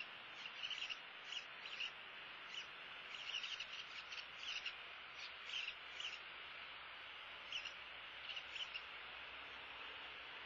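Short, high bird chirps in irregular clusters, frequent through the first six seconds and sparser after, over a steady hiss.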